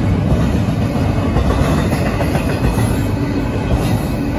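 Double-stack container well cars of a Union Pacific intermodal freight train rolling past, a loud, steady rumble of steel wheels on the rails.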